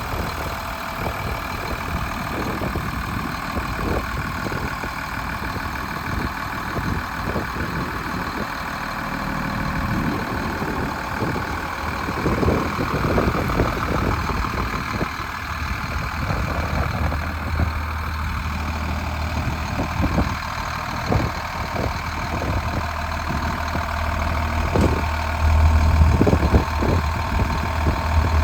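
2001 Superior fire truck's engine idling steadily, with scattered knocks and rattles over the hum.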